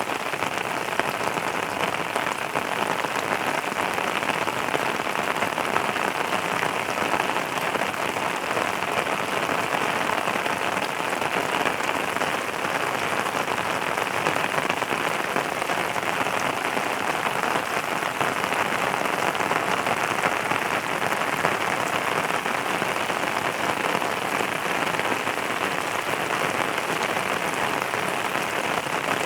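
Steady rainfall, a constant even hiss of rain falling on a surface.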